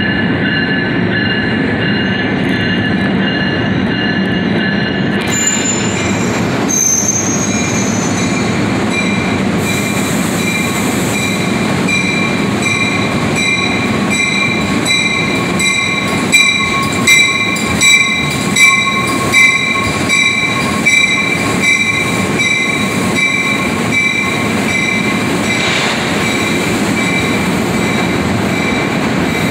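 NJ Transit commuter trains, a MultiLevel set and a Comet-coach set, rolling slowly through the station: steel wheels squeal in steady high tones through most of it. Around the middle comes a run of about six evenly spaced clacks as wheels pass over rail joints.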